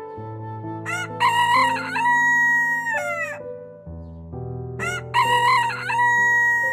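A rooster crowing twice, each crow about two seconds long and falling in pitch at the end, over soft background music.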